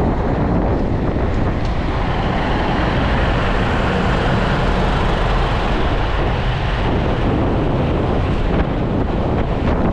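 Steady wind noise buffeting the microphone of a GoPro action camera on a moving road bike.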